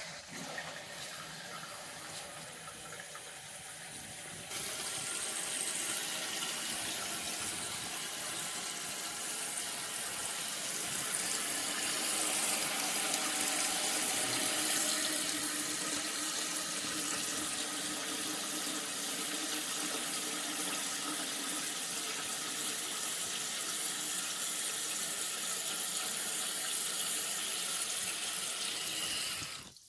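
Toilet tank refilling through its fill valve: water hissing and rushing steadily, getting louder about four seconds in, then cutting off suddenly as the valve shuts.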